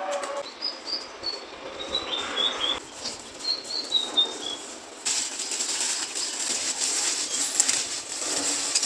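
A small bird chirping in quick runs of short, high notes that step downward. About halfway through, a steady crackling hiss starts abruptly and carries on.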